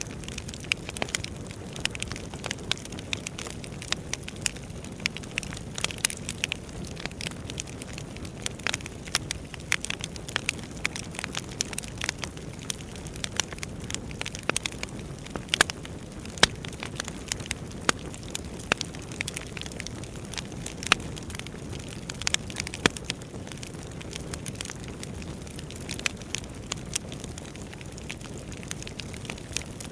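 Wood fire burning, with a steady low rush and frequent irregular sharp crackles and pops from the burning logs.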